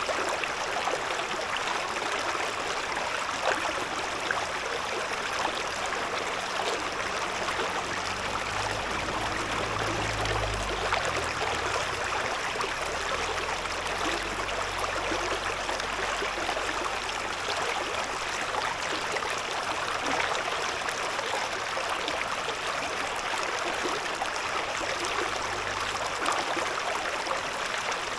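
A river's shallow stream murmuring steadily. A faint low rumble comes in about a third of the way through and fades by about two-thirds.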